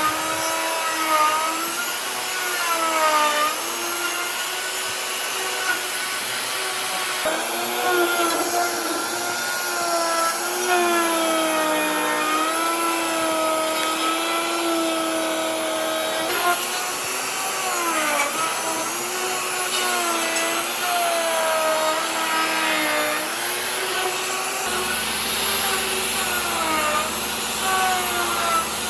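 Electric power tool motor whining as it works wood, its pitch dipping and recovering every second or two as it is pressed into the cut and eased off.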